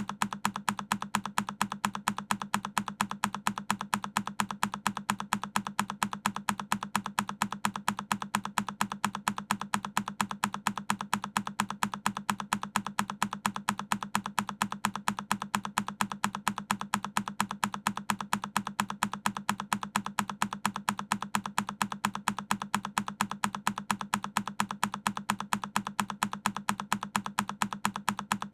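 A single key on a Keychron K10 mechanical keyboard being pressed over and over, each press a sharp click, repeating at an even, quick rhythm several times a second.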